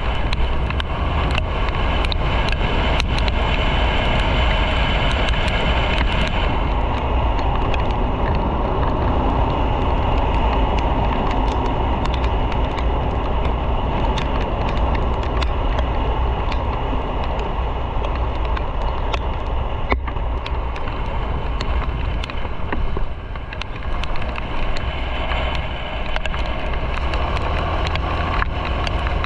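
Motorcycle on the move: a steady rush of wind and road noise over a low engine rumble, easing briefly a little after twenty seconds in.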